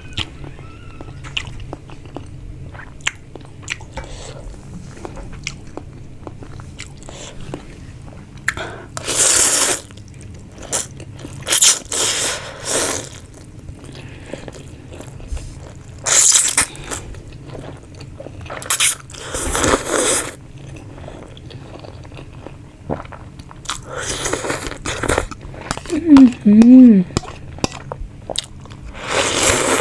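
Close-miked mukbang eating of chicken thukpa noodle soup and tandoori chicken: steady chewing, broken by about six loud, noisy mouthfuls a second or so long. Near the end comes a short hummed 'mmm'.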